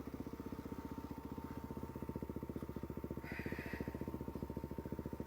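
Motorcycle engine idling with a steady, even pulse. A short hiss comes about three seconds in.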